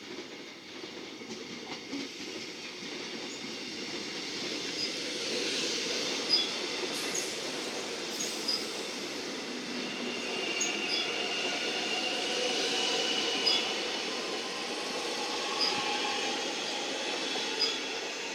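Melbourne Metro electric suburban train running through a station. Its steady rumble builds over the first few seconds, with sharp clicks every second or two and a high squeal from the wheels from about halfway, then eases off near the end.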